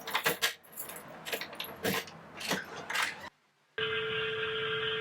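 A run of sharp clicks and clatters for about three seconds, then, after a short break, a phone ringing with a steady electronic tone for just over a second.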